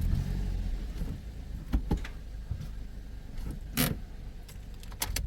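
Car engine idling with a low rumble, with a few sharp clicks and knocks and a short burst of noise about halfway through.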